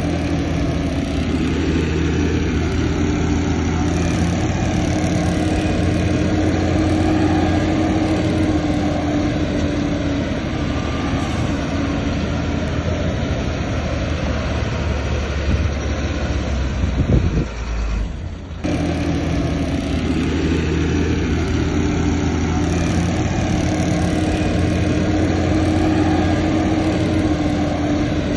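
Heavy diesel earthmoving machinery running steadily: a deep engine drone with a steady whine over it. It cuts out briefly about two-thirds of the way through, then carries on.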